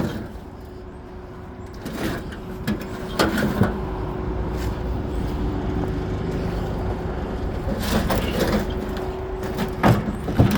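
Scrap air-conditioner units being handled and loaded: scattered knocks and clanks of sheet metal, over a steady low engine hum.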